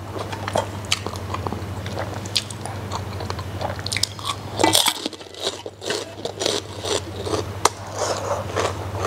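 Close-miked biting and chewing of crispy fried pork skin (chicharron), a run of sharp, irregular crunches and crackles with a louder burst of crunching a little before halfway.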